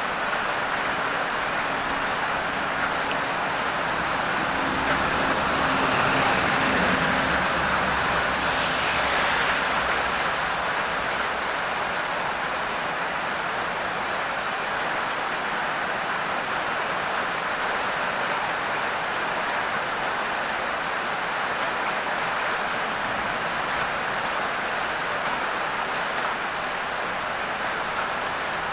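Heavy rain falling steadily, an even hiss. About five seconds in, a vehicle passes, bringing a low engine hum and a louder swell for a few seconds.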